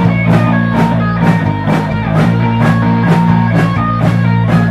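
Live rock band playing an instrumental stretch between sung lines: electric guitar and bass over a drum kit keeping a steady, even beat.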